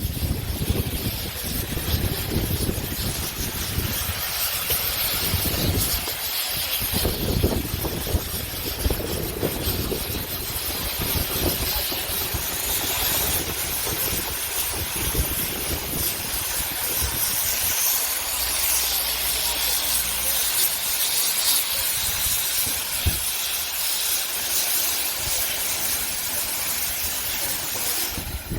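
Steam hissing steadily from a steam traction engine, with wind buffeting the microphone underneath.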